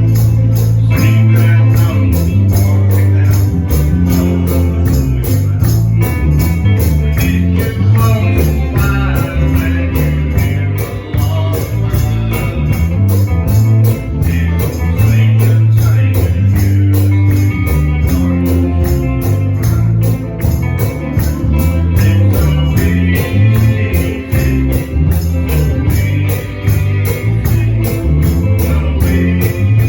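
Live gospel band music with a steady beat, a tambourine shaken along with it over bass and guitar.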